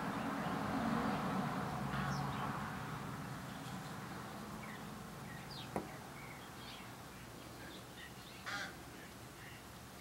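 Outdoor backyard ambience with scattered short chirps from small birds, over a louder low rumble that fades away during the first few seconds. A sharp click sounds about the middle and a brief burst of noise a few seconds later.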